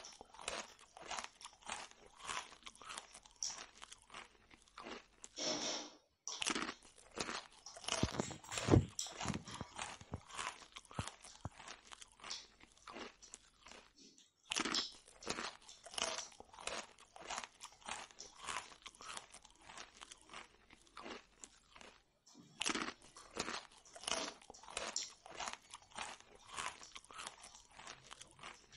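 A person chewing puri (fried flatbread) close to the microphone: rapid, irregular crunching with wet mouth clicks, breaking off briefly three times.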